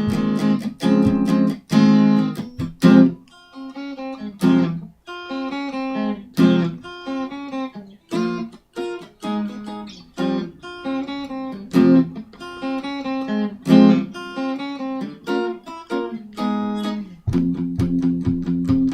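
Solo guitar playing an original piece that mixes bass lines and guitar parts. It opens with strummed chords, moves to picked single notes and short phrases with brief pauses, and strumming starts again near the end.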